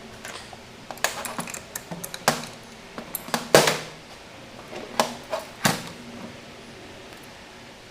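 A dozen or so irregular sharp clicks and clinks of small hard parts being handled and set down on a workbench, the loudest knock about halfway through.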